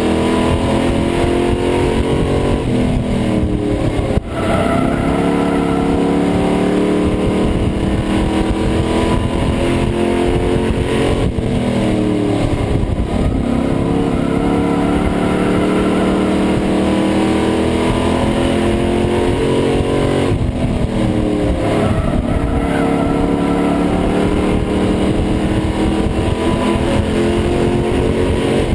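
Pro Truck race engine heard from inside the cab at racing speed, with constant wind and road noise. The engine note drops each time the driver lifts for a corner and climbs again down the straight, about every eight seconds.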